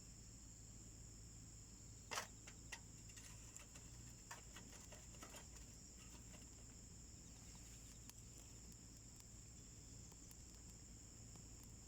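Wood fire crackling in a small homemade wood stove, with scattered faint pops and one sharper crack about two seconds in, over a steady high-pitched drone of insects.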